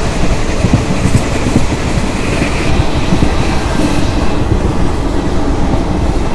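Passenger train running at speed, heard from inside the coach: a loud, steady rumble of wheels on the rails with frequent irregular knocks.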